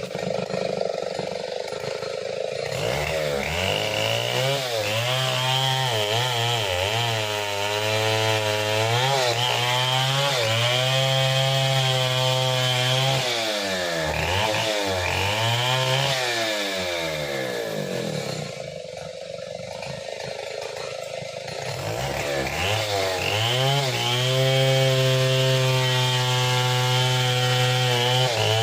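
Stihl 070 two-stroke chainsaw running, revved up and down repeatedly, dropping to a low idle about two-thirds of the way through, then held at high speed near the end.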